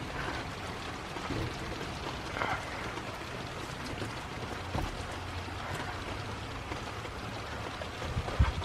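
Steady rain falling, with a few faint taps now and then.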